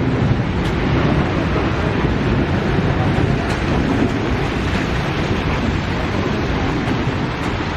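Steady wind buffeting the microphone, with a low, even rumble underneath.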